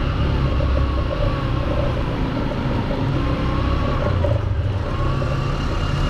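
Honda XR150's single-cylinder four-stroke engine running steadily at low revs as the motorbike rides slowly along, with a low rumble and a held, slightly wavering engine note.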